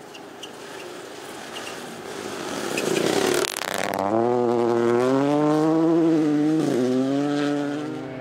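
Rally car engine at speed on a stage: the sound builds over the first three seconds to a brief rush of noise about three and a half seconds in, then a loud engine note holds high, dipping briefly near seven seconds.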